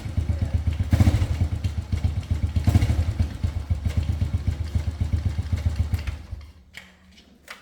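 Small motorcycle engine running, growing louder briefly twice, then switched off about six seconds in, followed by a couple of faint clicks.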